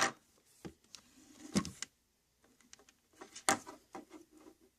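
Handling of a plastic-and-glass diffuser and its power cord: a few separate clicks and knocks, the loudest about three and a half seconds in, with light rubbing between them.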